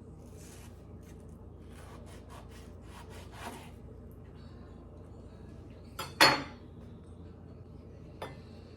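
Light scraping and taps of a knife and dishes while a mango is being sliced, with one loud sharp clink about six seconds in and a smaller tap near the end.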